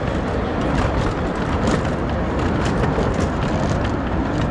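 Miniature steam train running on its track: a steady rumble with rapid, irregular clicking and rattling.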